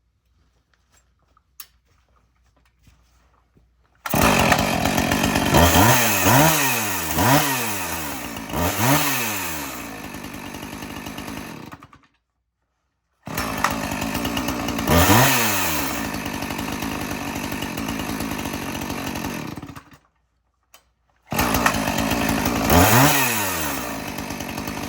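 Two-stroke chainsaw engine running and being revved: the engine note climbs and falls back several times. It comes in three stretches that each stop abruptly.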